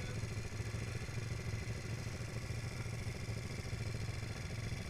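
Honda Tornado 250's single-cylinder four-stroke engine idling steadily.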